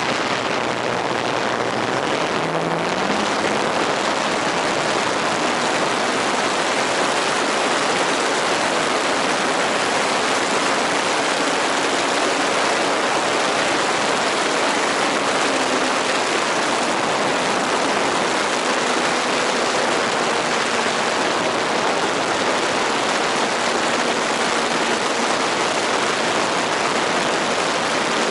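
Radio-controlled model airplane in flight: a steady, loud rush of air noise with a faint motor hum beneath it that rises in pitch about two to three seconds in.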